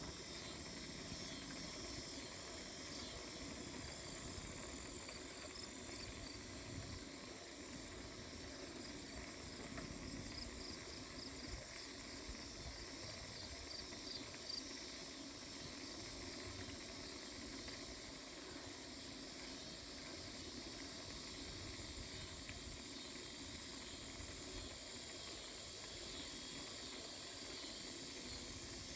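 Evening chorus of crickets and other insects, a steady high trilling with a faint pulse, over a low uneven rumble from riding the bicycle.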